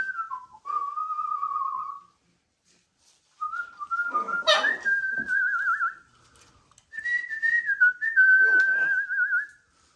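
Whistling: three long, wavering whistled phrases on a single pitch, with a sharp loud burst in the middle of the second one.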